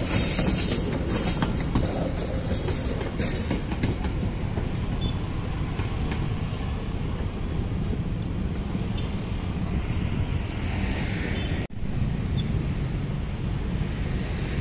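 Passenger train coaches rolling past at close range: wheels click over the rail joints in the first few seconds, then a steady rumble continues as the train moves away. The sound cuts out briefly and suddenly about three quarters of the way through, then the rumble resumes.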